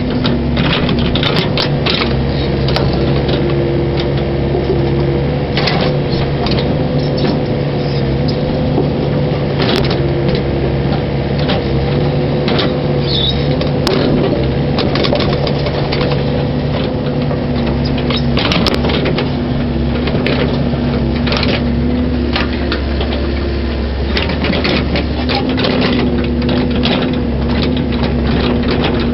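Mini excavator's diesel engine running steadily under hydraulic work, with irregular clanks and knocks from the machine as it pushes dirt back into a trench.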